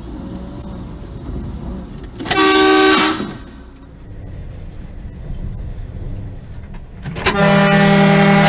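Car horn blown twice in long blasts, the first about two seconds in and lasting about a second, the second starting near the end and held longer, over steady road and engine noise from the car.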